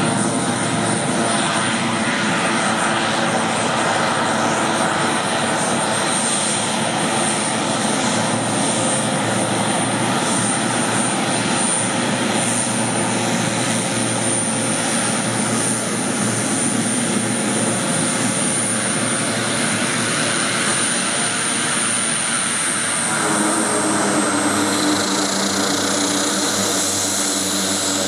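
Air Tractor 802's Pratt & Whitney PT6A turboprop engine running steadily, with a high turbine whine over the propeller noise. The engine note shifts about 23 seconds in, and the high whine drops slightly.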